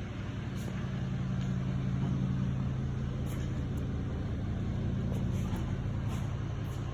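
Electric hydraulic power unit of a two-post car lift running, a steady hum.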